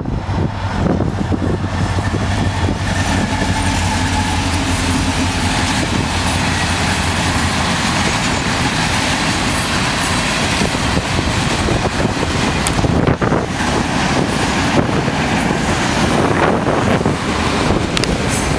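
Freight train passing close by: the diesel locomotives' engines hum low at first, then the flatcars roll past with a steady rumble and scattered clicks and rattles of wheels on the rails.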